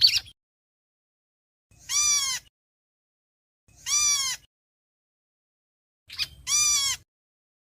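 Héc xoan bird giving its flock-gathering call: a brief call right at the start, then three harsh, arched calls about two seconds apart, each rising and then falling in pitch and lasting under a second.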